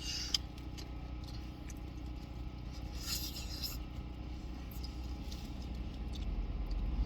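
Takeout food packaging handled while eating: two short rustles, about three seconds apart, with a light click, over a steady low hum inside a parked car.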